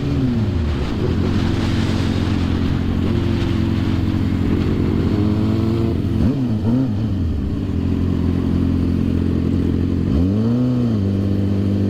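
2006 Suzuki GSX-R 750's inline-four engine running steadily on the move. Its pitch rises and falls briefly about ten seconds in, with smaller changes near the start and midway.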